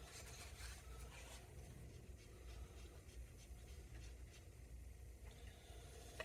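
Near silence: room tone with faint scratching and rubbing of small parts being handled, mostly in the first second and a half, and a small click at the end.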